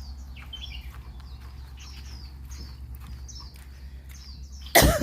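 A bird chirping over and over, short falling high notes about twice a second. Near the end a person gives one loud cough.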